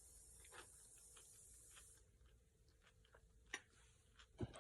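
Faint crunching and mouth clicks of someone chewing cucumber salad, with one sharper crunch about three and a half seconds in.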